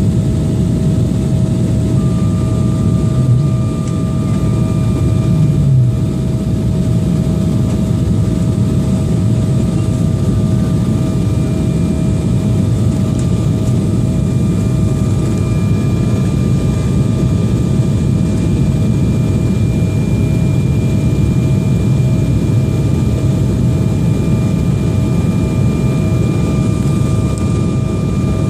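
Jet airliner's engines heard from inside the cabin: a steady, loud rumble with a few faint constant whining tones over it, unchanging throughout, while the aircraft comes in to land.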